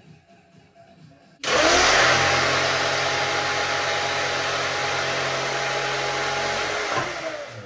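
An electric power tool's motor starts suddenly about one and a half seconds in, rising quickly to speed with a loud, steady noise, likely as a measured piece of wooden ceiling paneling is cut or trimmed. It runs for about five seconds and then winds down near the end.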